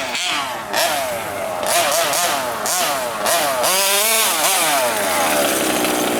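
Small two-stroke petrol engine of a gas-powered FG radio-controlled monster truck revving up and down in quick blips, the pitch rising and falling over and over, with one bigger swing about four seconds in before it settles to a steadier run near the end.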